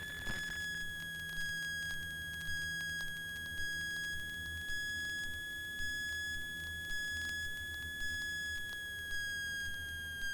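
Steady high electrical whine on the Cessna 172's intercom audio line between radio calls, with a faint tick about once a second.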